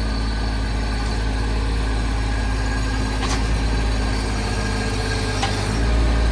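Mini track loader's engine running steadily as the machine tries to lift a buried post out of the ground, with a couple of faint knocks. The engine grows a little louder near the end.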